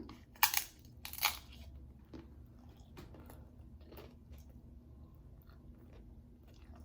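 Close-up biting and chewing of crunchy food: two loud crunches within the first second and a half, then softer, scattered chewing.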